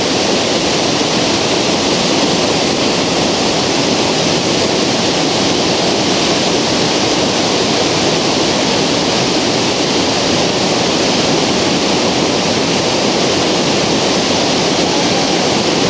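Waterfall: a steady, loud rush of falling water that never lets up.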